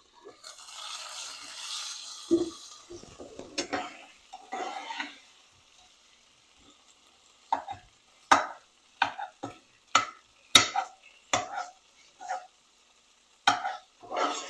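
A spoon stirring food in a stovetop pot, with knocks and scrapes against the pot, about a dozen sharp ones in the second half. A couple of seconds of sizzling hiss from frying come near the start.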